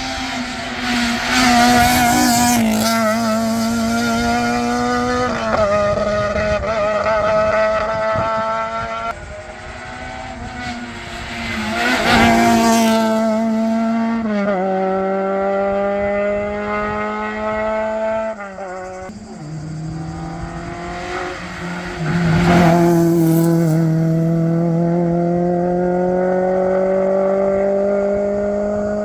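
Modern rally cars driving flat out on a special stage, one after another, engines revving hard through the gears with stepped changes in pitch. Some tyre squeal.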